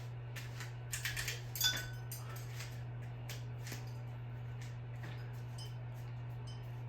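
Small hard objects clinking and rattling as they are handled. A quick cluster of clinks with brief metallic ringing comes about a second in, then sparser light clicks follow, over a steady low hum.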